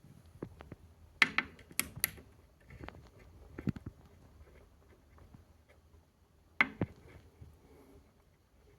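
Fire burning in a fireplace, crackling with scattered sharp pops; the loudest pops come about a second in, near two seconds and at six and a half seconds.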